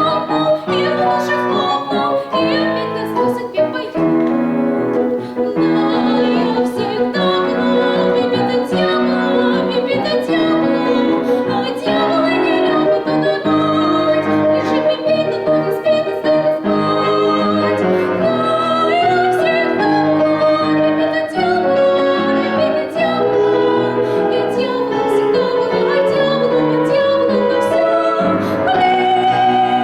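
A girl singing an operetta song in a light classical style, holding notes with vibrato, over instrumental accompaniment.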